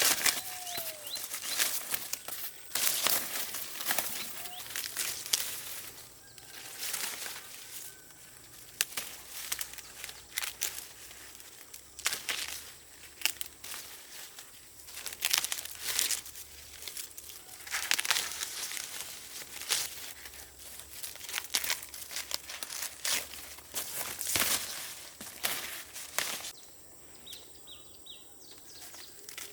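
Dry leaves rustling and crackling in repeated short bursts, one every second or two, growing quieter near the end with a few faint bird chirps.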